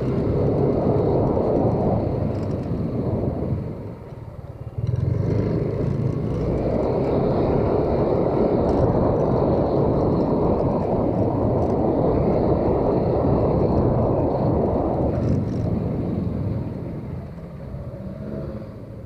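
Motorcycle riding along, its engine mixed with a heavy rush of wind on the microphone. It dips briefly about four seconds in and dies down over the last few seconds.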